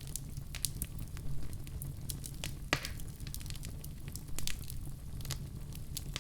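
Fireplace fire burning with a steady low rumble and irregular crackles and pops, one louder pop a little under halfway through.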